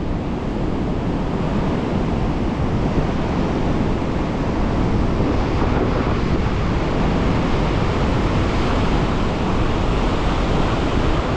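Ocean surf washing in strong waves, with wind buffeting the microphone: a steady rushing noise.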